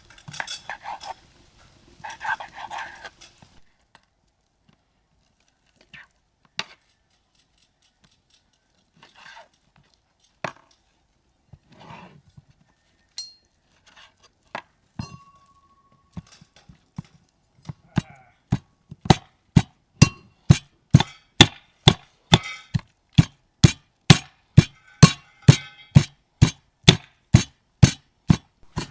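A dog makes brief sounds at the start, followed by a few scattered knocks and clinks. From about two-thirds of the way in comes a loud, steady run of chopping strikes on wood, about two a second.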